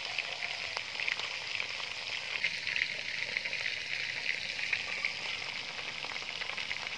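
Pork-and-herb-stuffed frogs frying in hot oil in a metal wok: a steady sizzle dotted with many small crackling pops.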